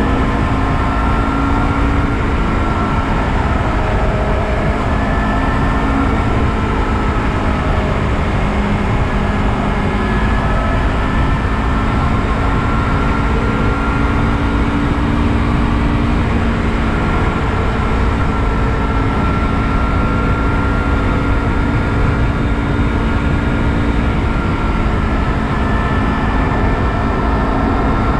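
Honda CBR250RR parallel-twin engine with an Akrapovic carbon slip-on exhaust running at a steady highway cruise, revs held nearly constant, under heavy wind and road noise.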